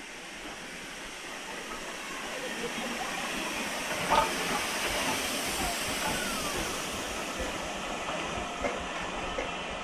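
Steam locomotive on the heritage line hissing and running, its noise swelling over the first few seconds and then holding steady, with a short sharp sound about four seconds in.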